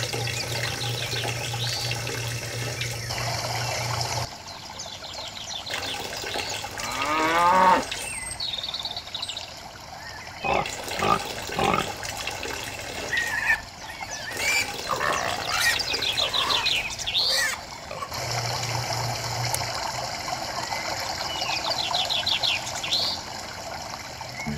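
A miniature electric water pump hums steadily while water runs from its hose. The pump stops about four seconds in and starts again near the end. In between, water is poured into a small trough, with bird chirps and high rising animal calls.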